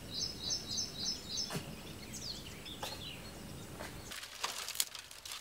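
Small bird chirping: a quick run of short high chirps over the first second and a half, then a falling call around two seconds in, over a faint steady background, with a few light clicks near the end.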